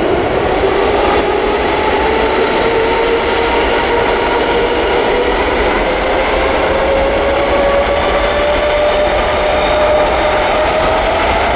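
Boeing 747-8F freighter's four GEnx-2B67 turbofan engines running loud: a steady rushing roar with a whine that climbs slowly in pitch throughout.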